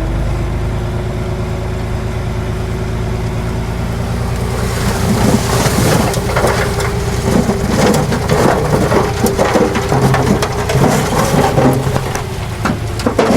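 A diesel earthmoving machine running steadily. About four to five seconds in, loose soil and stones start crunching and pouring, a dense crackle that carries on over the engine.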